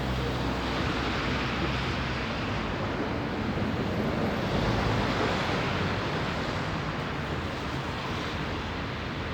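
Steady rush of wind and street traffic, with a low engine hum in the first couple of seconds and again later on.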